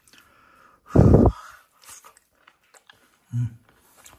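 A person chewing a mouthful of cooked moon snail close to the microphone: a loud, close bite about a second in, then soft, scattered chewing clicks, and a short hummed "mm" near the end. The snail meat is chewy.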